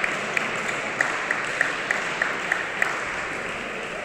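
Spectators applauding in a sports hall, with one clapper close by keeping a steady beat of about three claps a second that stops near the end, as the applause dies down.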